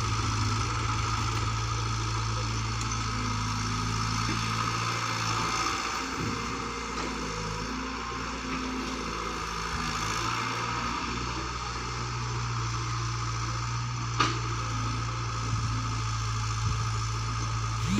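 Engine of the digging machinery running steadily with a deep hum, its note dipping briefly a couple of times, with a single sharp knock about 14 seconds in.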